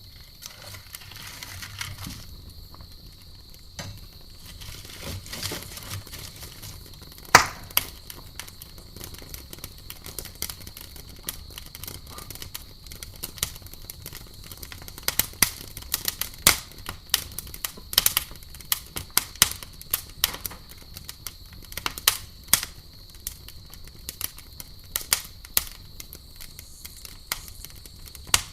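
Campfire crackling: burning wood giving irregular sharp pops and snaps, more frequent in the second half, the loudest about seven seconds in, over a faint steady hiss.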